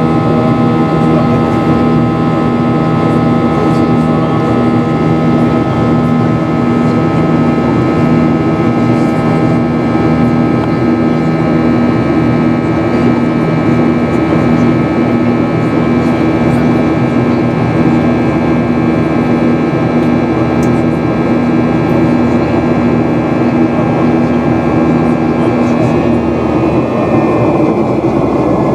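Boeing 737-800 cabin noise in flight: the CFM56-7B engines and airflow make a steady, loud hum with several steady tones in it, heard from inside the cabin. Near the end a few of the tones shift slightly in pitch.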